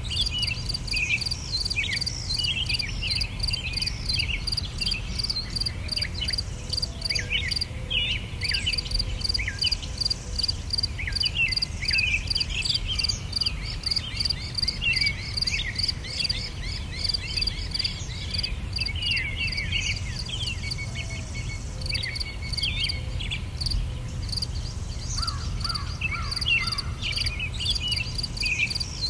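Birds chirping and singing over an evenly pulsing insect chorus, with a steady low rumble underneath.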